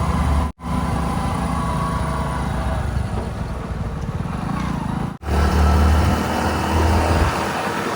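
Heavy diesel engines running steadily, cut by two brief dropouts about half a second and five seconds in. After the second dropout a deeper, stronger engine hum takes over.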